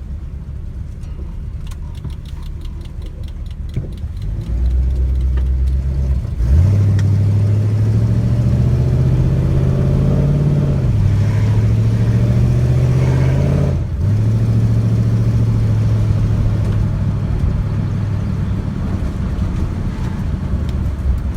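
Mercedes 240D fitted with a 5.5-litre M117 SOHC V8 on Megasquirt injection, under way. A low steady rumble gives way about six seconds in to hard acceleration, the engine note rising, dropping once at an upshift of the automatic, and climbing again. It cuts back suddenly near fourteen seconds to a steady cruise.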